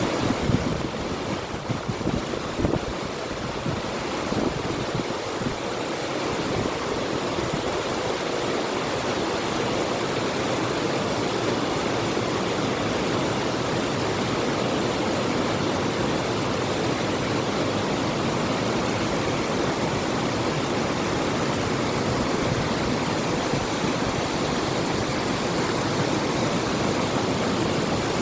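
River water rushing steadily, with low gusts of wind on the microphone during the first few seconds.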